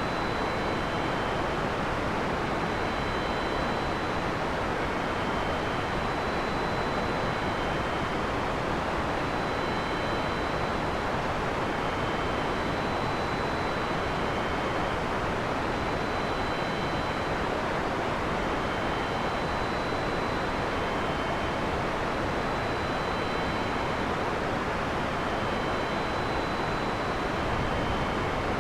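Heavy rain falling steadily as a dense, even hiss, with no thunder. Faint short high-pitched tones repeat every second or two.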